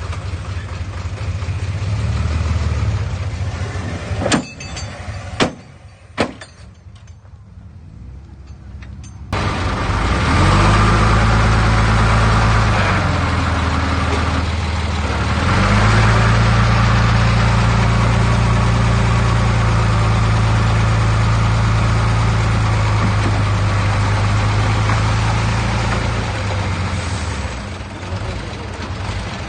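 Heavy diesel engine of earthmoving machinery running, with three sharp metallic knocks about four to six seconds in. The engine dies down briefly, then comes back loud and steady at about nine seconds, its pitch stepping up and down.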